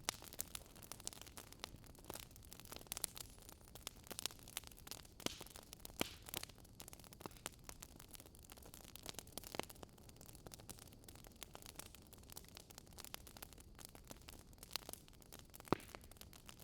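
Wood fire crackling: quick, irregular pops and snaps over a faint steady hiss of burning logs.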